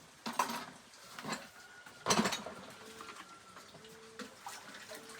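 A few knocks and clatters of dishes and utensils being handled, the loudest about two seconds in, with a faint thin tone coming and going in the second half.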